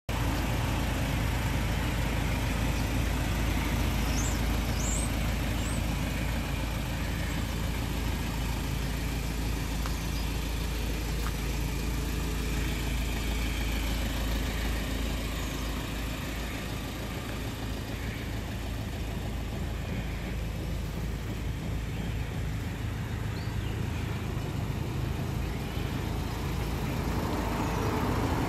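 A vehicle engine idling steadily with a low rumble, easing somewhat past the middle. A few faint high chirps sound about four seconds in.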